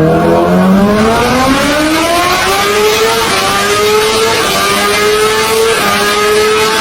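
Superbike engine accelerating hard, its pitch climbing steadily for about three seconds, then holding at a high, near-constant pitch with small wavers.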